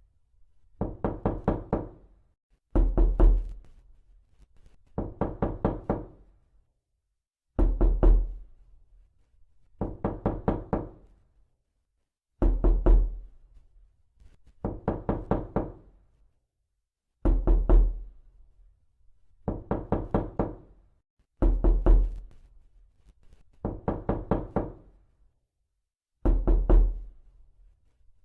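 Knuckles knocking on a door in quick sets of four or five raps, a set about every two seconds, looping on. Every other set is louder and deeper.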